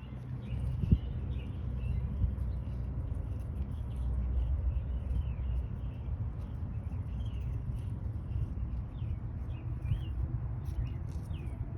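Short, high bird peeps, scattered and more frequent in the second half, over a steady low rumble.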